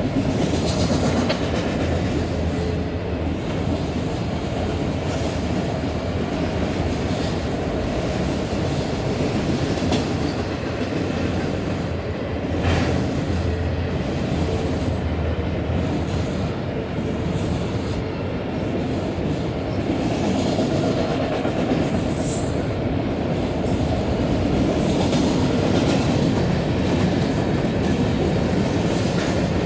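Loaded autorack freight cars rolling past on the rails: a steady rumble with the clickety-clack of wheels over rail joints, a sharp clank about halfway through and a brief high wheel squeal a little later.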